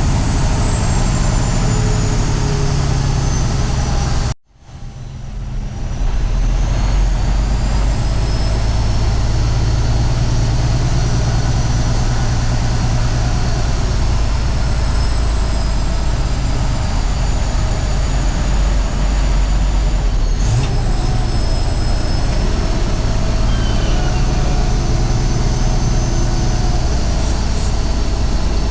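Heavy truck's diesel engine running steadily. It cuts out abruptly about four seconds in and fades back in over the next second or two.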